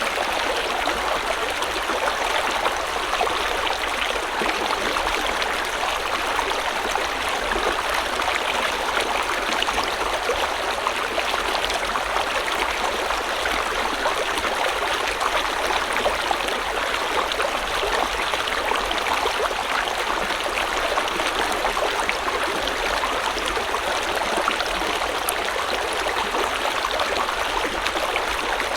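River or stream water flowing over rocks, a steady, unbroken rush with fine splashing and trickling.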